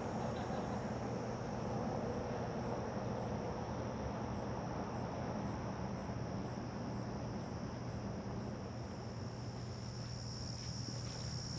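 Insects buzzing in summer heat: a steady, high-pitched drone that grows louder toward the end, over a low steady hum.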